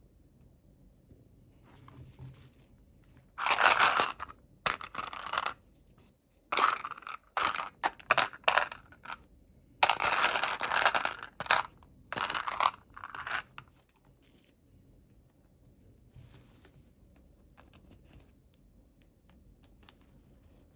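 Toy packaging being torn open and crinkled by hand, in a run of sudden tearing and crunching bursts lasting about ten seconds, with faint handling before and after.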